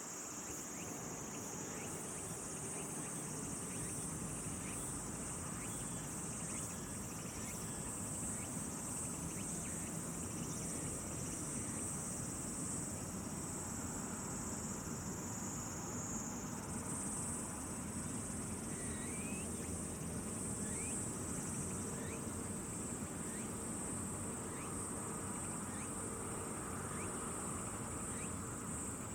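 Insects trilling: a continuous, high-pitched shrill chorus that steps slightly up in pitch a couple of times, over a soft outdoor ambience.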